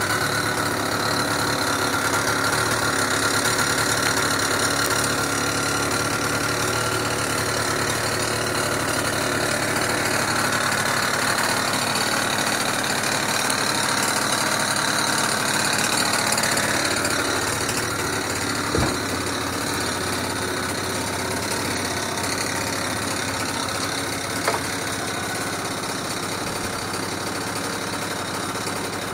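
Aprilia SR 50 scooter's two-stroke 50 cc engine idling steadily just after a cold start at −7 °C. Two short knocks come through about two-thirds of the way in.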